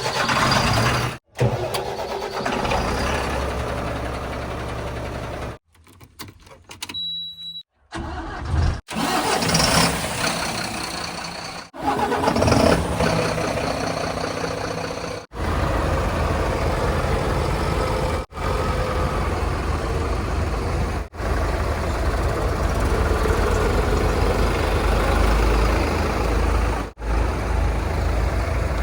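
Diesel engines of earthmoving machinery and trucks running, with abrupt cuts every few seconds between short clips. A short high beep sounds in a brief quiet gap about seven seconds in, and the engine hum grows heavier and steadier over the last half.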